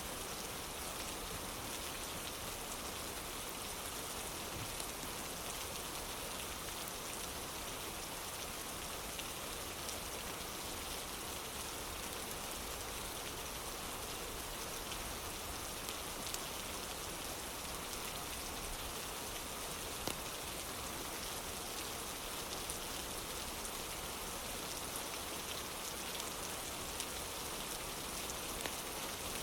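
Steady rain falling on a surface: an even hiss with scattered faint ticks of individual drops.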